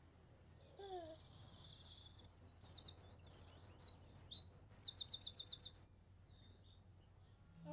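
Songbird chirping and trilling in quick high phrases, including a fast run of repeated notes about five seconds in.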